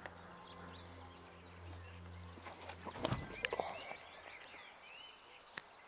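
Faint birdsong of small birds chirping, over a low steady hum that stops about halfway through. A brief burst of noise comes about three seconds in, and two sharp clicks follow, one shortly after and one near the end.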